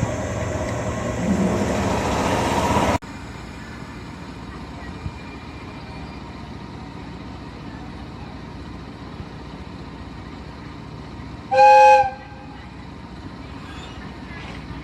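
Loud steady train running noise that cuts off abruptly about three seconds in, then a quieter steady rumble. Near the end comes one short, loud train horn blast of about half a second.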